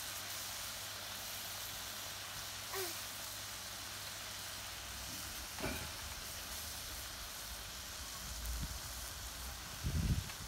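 Soy-marinated beef and garlic frying without oil in a metal pan, the marinade bubbling and sizzling with a steady hiss. A few low bumps come near the end.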